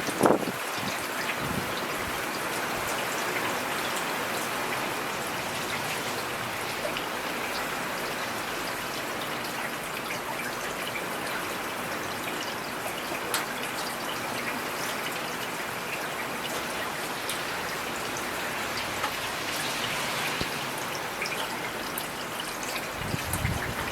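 Steady rain falling, a dense hiss with individual drops ticking on a surface. A brief low rumble sounds right at the start.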